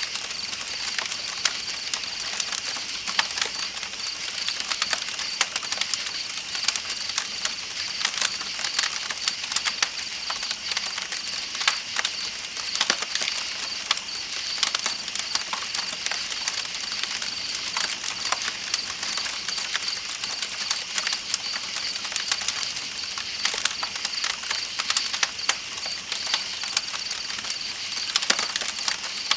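Campfire crackling with frequent sharp pops, over an even hiss of flowing river water, while night insects keep up a steady high-pitched trill.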